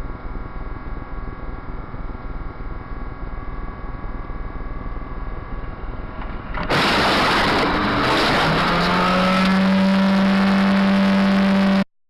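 Steady car noise recorded by a dashcam. About two-thirds in it switches abruptly to a much louder car recording, in which a tone rises and then holds steady. The sound cuts off suddenly just before the end.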